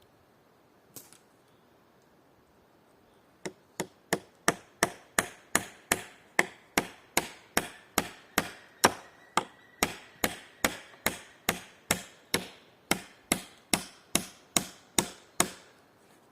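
Hammer striking repeatedly, driving nails into wood: a steady run of sharp blows, close to three a second, starting about three seconds in and stopping shortly before the end.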